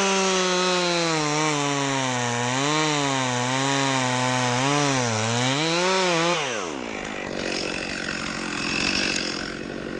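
Chainsaw running at high revs while cutting wood, its pitch dipping and recovering several times as it takes and sheds load. About six and a half seconds in the revs fall off sharply, and a steady noise without any engine tone follows.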